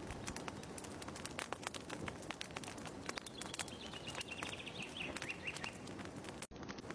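Fireplace crackling with frequent sharp, irregular pops, and a bird's short trill of repeated notes in the middle; the sound cuts out for an instant near the end.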